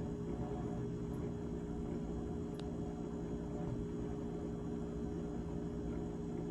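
GE GTH18XCTZRBB top-freezer refrigerator running, a steady hum made of several held tones over a low rumble.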